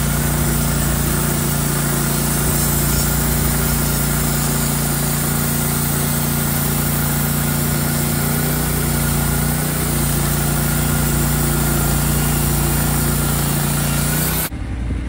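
Portable band sawmill's gas engine running at a steady speed, with a dense hiss over it. Near the end the sound changes abruptly to a quieter, lower engine sound.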